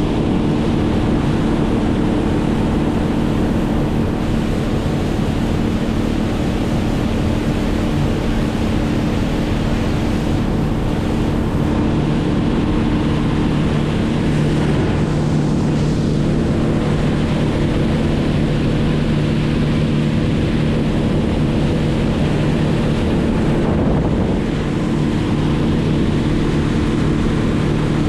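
A motor running steadily at an even speed, its hum holding one pitch, under a loud rushing noise of wind and water.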